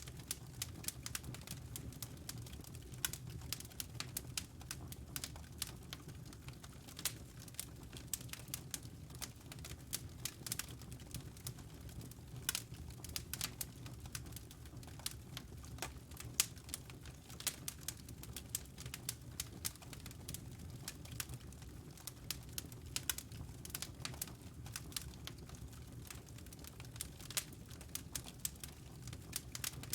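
Wood fire burning in a fireplace: a steady low rumble of flame with many small, irregular crackles and pops from the burning logs.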